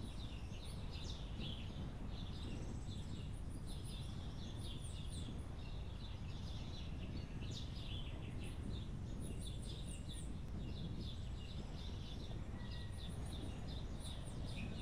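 Many birds chirping and trilling, short calls overlapping throughout, over a steady low background rumble.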